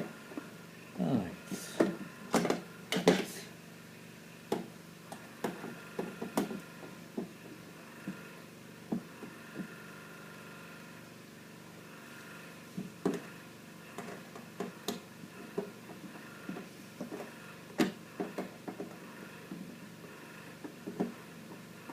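Irregular clicks, taps and knocks of plastic and metal parts being handled and pried as an old printer is taken apart, with a short falling scrape about a second in and a quieter pause near the middle. A faint steady hum runs underneath.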